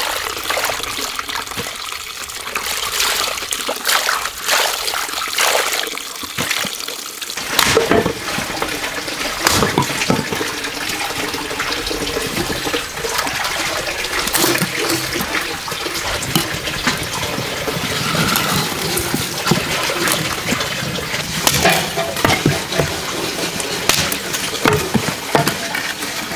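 Running water splashing, with many short knocks and clatters scattered through it.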